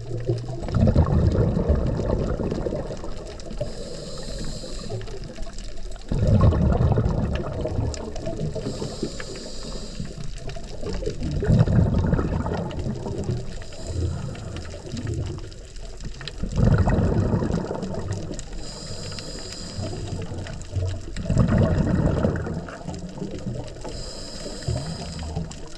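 Scuba diver breathing through a regulator underwater: every five seconds or so a short high hiss of inhalation, then a burst of exhaled bubbles rumbling and gurgling for about two seconds, five breaths in all.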